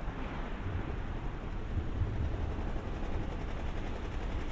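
JR East 205 series electric train running away into the distance: a low, steady rumble with no sharp knocks or tones.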